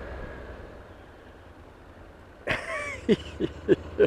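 A Boxer dog gives a short whining call about two and a half seconds in, then a quick run of short yips that each drop in pitch. Under it runs the low steady hum of the motorcycle.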